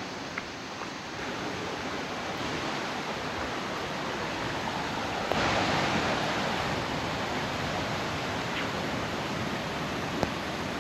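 Ocean surf: a steady rush of breaking waves, with a louder surge about halfway through.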